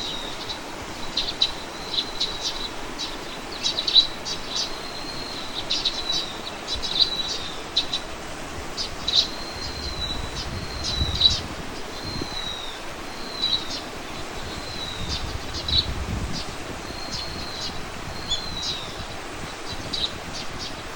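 Small birds chirping and calling: quick high chips and short whistled slides, repeated over and over, over a steady outdoor hiss.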